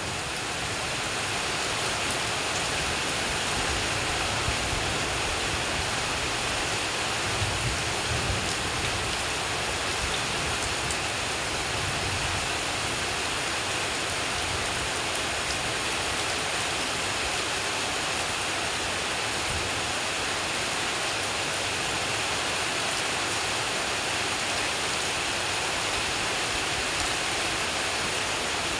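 Heavy rain pouring steadily: a dense, even hiss with no letup.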